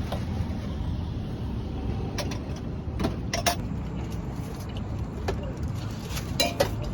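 Steady low rumble of road traffic, with a few short sharp knocks or clicks scattered through it.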